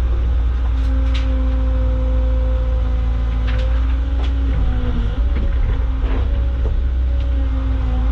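Caterpillar excavator's diesel engine running steadily, heard from the cab, its pitch dipping briefly about five seconds in as it takes load. Scattered sharp clacks and knocks sound over it.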